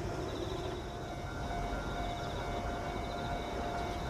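Ichibata Electric Railway electric train running as a low rumble, with a steady whine that sets in about a second and a half in.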